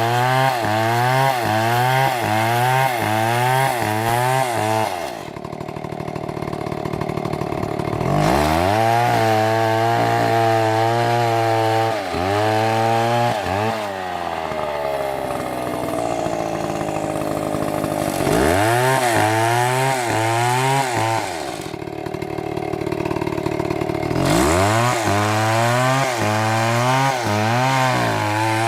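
Chainsaw cutting a tree at full throttle, its pitch wavering up and down about twice a second as the bar works through the wood. The engine drops back to a lower, quieter speed three times between cuts.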